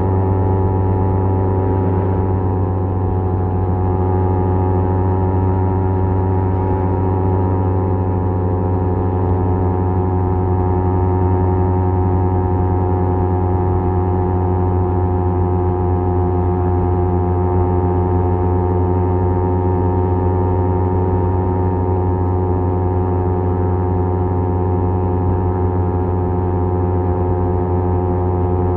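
Kawasaki Z250 parallel-twin engine through an aftermarket SeaPro muffler, running at a steady engine speed while cruising, the exhaust note holding one pitch throughout.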